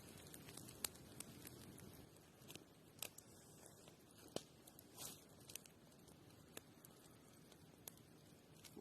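Near silence: a faint low hiss with scattered soft clicks and ticks, a dozen or so, irregularly spaced, with one slightly longer crackle about five seconds in.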